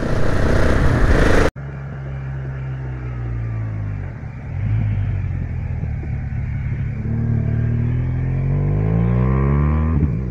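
Motorcycle on the move with heavy wind noise on the microphone, cut off abruptly after about a second and a half. Then motorcycle engines idling at a stop; about seven seconds in, one engine's pitch climbs steadily for a few seconds before falling back.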